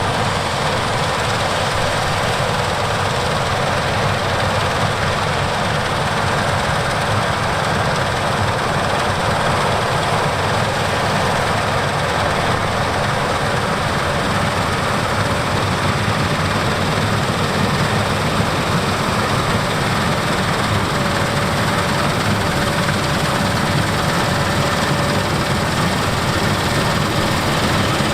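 Heavy harvest machinery running steadily under load: a diesel engine and its working machine noise, with a faint steady whine coming in about three-quarters of the way through.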